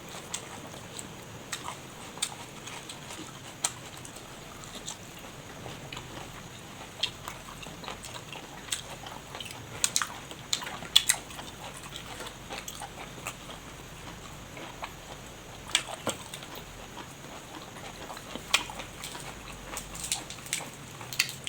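Close-miked eating sounds of a person chewing boiled pork small intestine with fresh vegetables: wet chewing and mouth smacks with short, sharp crunchy clicks at irregular moments.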